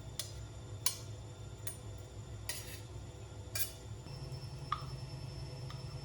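Five or so sharp clicks and light taps over the first four seconds, over a low steady hum, with a faint steady high tone starting about four seconds in.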